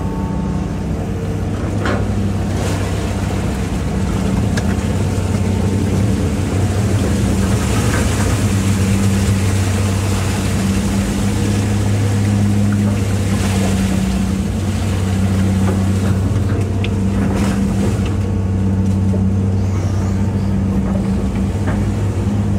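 Hitachi EX200-5 excavator's diesel engine running steadily under hydraulic working load, with water sloshing and splashing around the machine as it digs, swelling in the middle, and a few sharp knocks.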